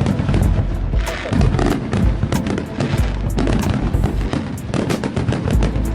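Fireworks going off in quick succession: many sharp cracks and pops, several a second, over deep booms.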